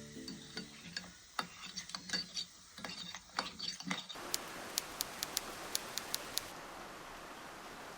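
Scattered light clicks and knocks for about four seconds, then an abrupt change to steady rain falling, with a quick run of sharp drip ticks shortly after it starts.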